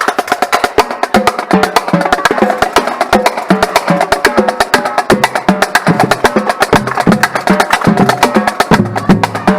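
Marching drumline playing: a fast, dense stream of sharp snare strokes over lower pitched drum hits that step between notes.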